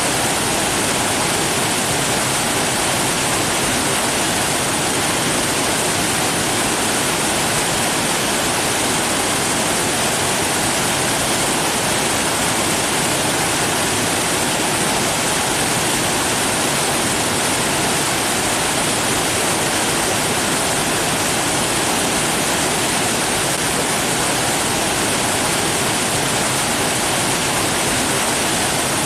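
Steady, unbroken rushing water, like a waterfall or fast stream, a dense even hiss with no changes.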